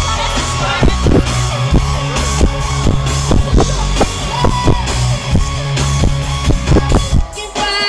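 Live pop-rock band music, loud, with a steady drum beat of about two strokes a second over heavy bass and guitar; the bass and drums drop back about seven seconds in.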